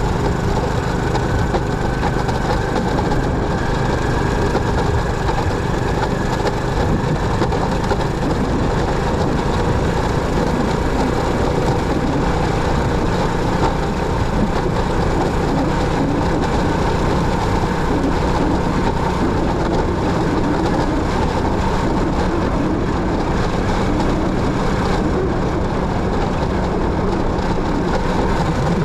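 Motorcycle running while being ridden, its engine note mixed with steady road and wind noise; a faint whine rises slowly over the first several seconds.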